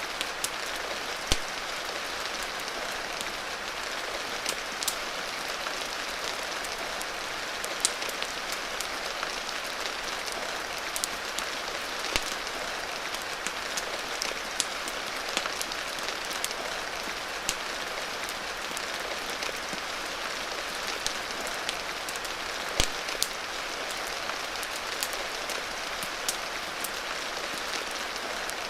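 Steady rain hiss with irregular sharp pops and crackles from a wood fire in a fireplace.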